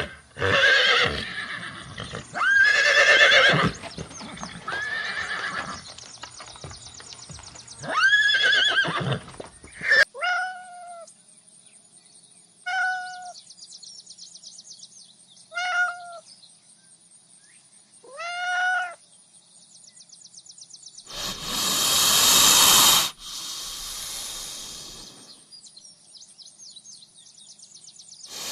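Horse whinnying again and again, loud pitched neighs that rise and fall, followed by four shorter, thinner calls spaced a few seconds apart. Near the three-quarter mark comes a loud breathy rush of noise lasting about two seconds.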